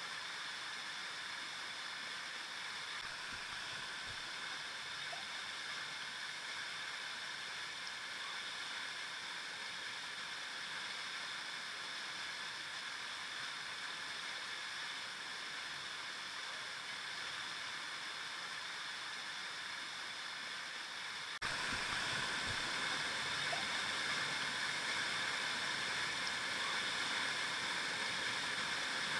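River water flowing and rushing steadily over stones. About 21 seconds in, it abruptly gets louder and stays louder.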